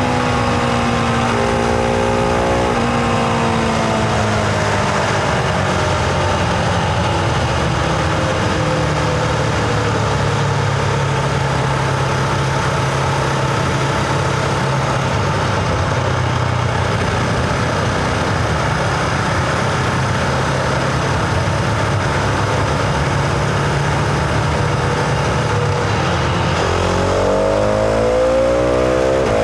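Husqvarna Vitpilen 701's single-cylinder engine and exhaust, heard from the rider's position. The engine note falls over the first few seconds, runs steadily at low revs through most of the stretch, then climbs again as the bike accelerates near the end.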